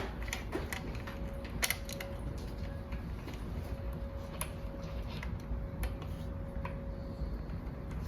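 Small bolts being threaded by hand into a motorcycle tail mount's threaded posts: scattered light metal clicks and ticks over a low hum.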